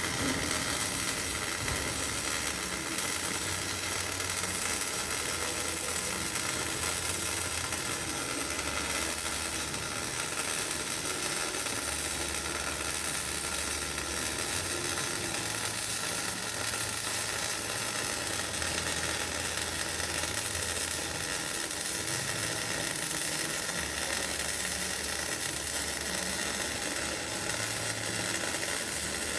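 MIG welding arc on steel pipe, crackling and sizzling steadily without a break.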